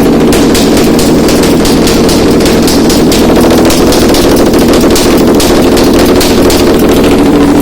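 Toyota 2GR-FE 3.5-litre V6 engine running on a test stand, loud and steady, with a rapid irregular clatter of sharp clicks over the engine's drone.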